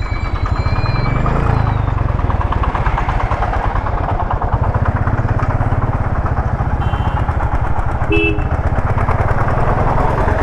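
Motorcycle engine running steadily with fast even firing pulses while the bike is ridden on the road. A short horn beep sounds about eight seconds in.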